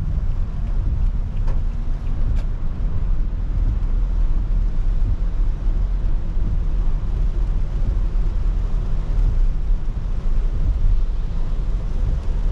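Car driving on a wet road, heard from inside the cabin: a steady low rumble of tyres and engine under a light, even hiss of rain, with a few faint ticks in the first few seconds.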